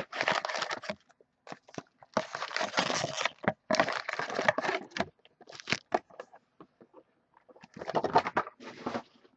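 Hockey trading card packaging being crinkled and torn open by hand, in irregular bursts of crackling and ripping with short pauses between.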